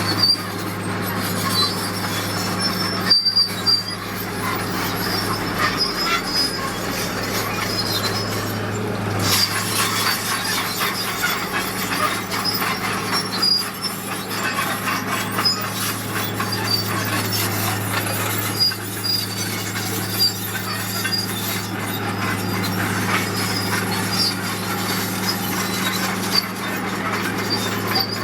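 Crawler bulldozer working: its diesel engine runs steadily under repeated high squeals and grinding from the steel tracks.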